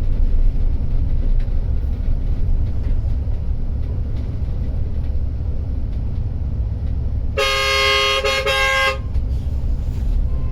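Steady low rumble of an intercity coach's engine and tyres on a rough road, heard from inside the bus. A vehicle horn blares once for about a second and a half, about seven seconds in.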